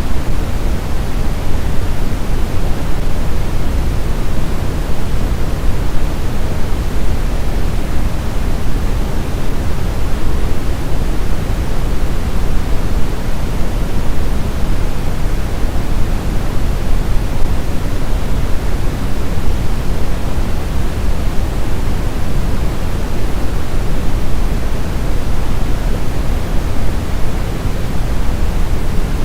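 Steady sleep-aid white noise: an even, unbroken hiss, heavier in the low end than the high, like pink noise.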